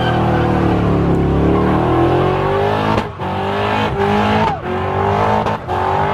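Car engine revving hard at high rpm, its pitch climbing gradually. The revs briefly drop several times in the second half as the throttle is lifted and reapplied.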